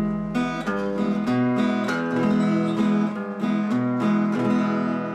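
Acoustic guitar playing a plucked melody over low bass notes, several notes a second.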